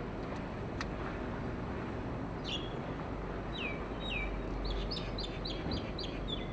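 Bird calling: a few short downward-sliding chirps from about two and a half seconds in, then a quick run of similar notes, about five a second, over a steady low rumble.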